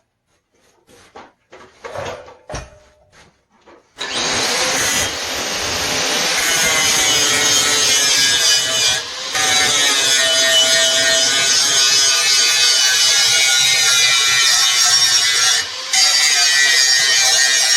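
An angle grinder starts about four seconds in and runs steadily, grinding metal, dipping briefly twice. Before it starts there are a few light knocks.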